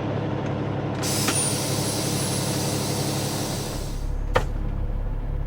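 A semi-truck's diesel engine idles, heard inside the cab. About a second in, a long hiss of air starts as the parking brakes are released. It fades after a couple of seconds, as the engine's low rumble deepens and the truck pulls away. A single sharp click comes near the end.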